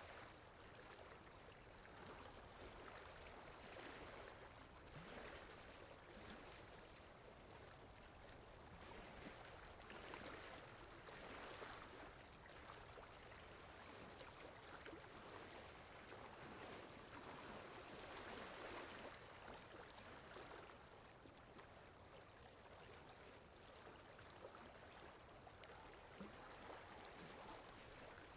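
Soft, steady rain falling, a quiet even hiss that swells and eases every few seconds.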